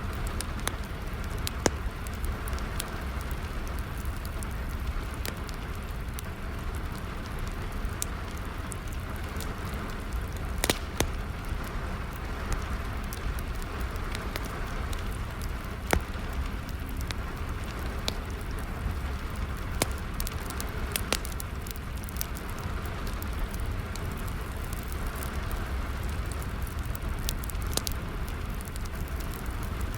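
Steady rain with a wood fire crackling, sharp irregular pops and snaps from the burning wood over the even hiss of the rain.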